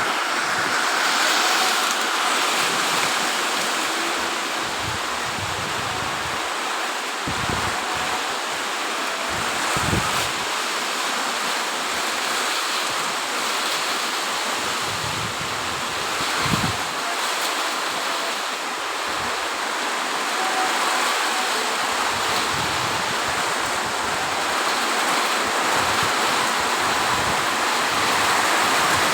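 Heavy rain pouring steadily in strong wind, a continuous rushing hiss, with a few brief low gusts buffeting the microphone.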